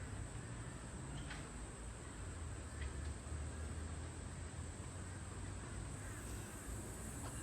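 Faint outdoor garden ambience: a steady high-pitched insect drone over low wind rumble, with two faint short sounds about one and three seconds in.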